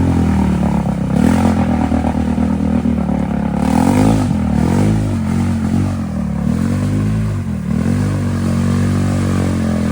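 ATV engine revving up and down over and over, its pitch rising and falling about once a second, as the quad works through deep mud.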